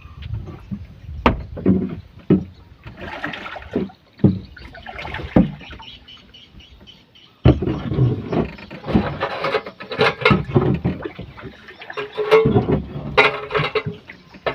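Irregular knocks, clatter and rustling of handling in a small boat, with a sudden louder noisy stretch about halfway through.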